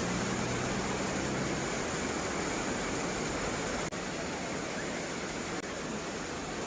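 Waterfall: a steady rush of falling water, with a brief dip in level about four seconds in.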